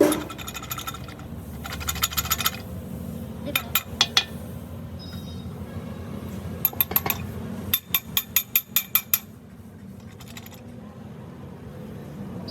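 Sharp metal-on-metal strikes and clinks in short runs, the fastest a quick series of about six a second near the end, over a steady low machine hum.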